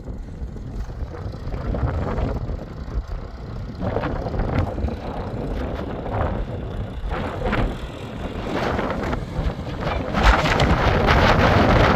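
Wind buffeting the microphone: a constant low rumble with gusty surges of noise, growing louder about ten seconds in.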